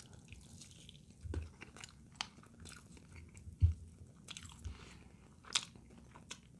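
A person chewing food close to the microphone, with scattered short wet mouth clicks and a few soft low thumps.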